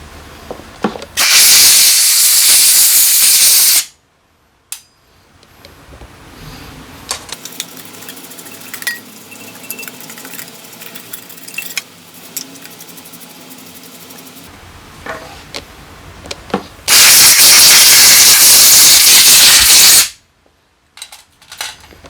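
Two long hissing blasts of a pressurised spray directed at carburetor parts during cleaning, each lasting about two and a half to three seconds, the second coming about fifteen seconds after the first. Quiet clicks and small handling noises of parts fill the gap between them.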